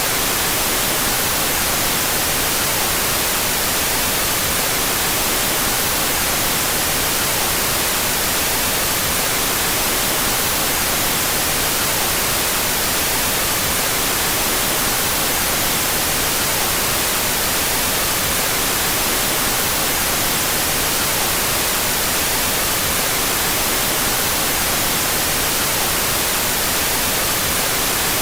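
Steady white noise, an even hiss that stays the same throughout, its left and right channels out of phase.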